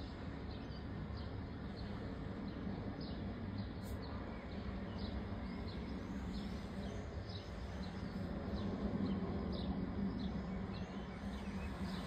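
A small bird chirping over and over, short high chirps about twice a second, over a steady low background rumble that swells slightly about two-thirds of the way through.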